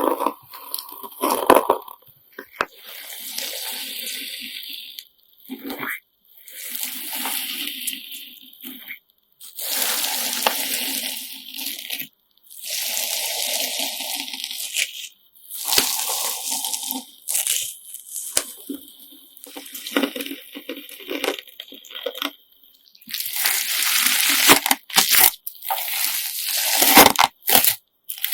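Homemade slime mixed with coloured sand being pressed and squeezed by hand, giving a crunchy, wet crackle in repeated strokes of a second or two with short pauses between them.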